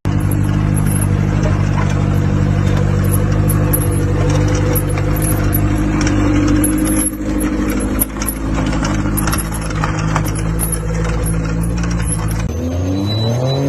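A motor vehicle engine running at a steady pitch, with rattling and clicking over it; it breaks off abruptly near the end.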